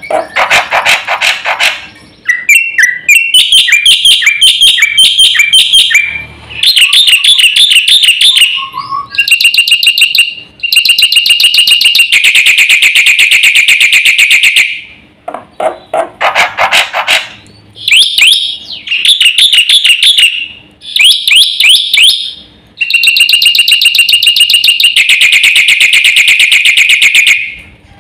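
Black-winged starling (jalak putih) singing loudly: long runs of rapid-fire repeated notes and buzzing trills in phrases a few seconds long, broken by short pauses.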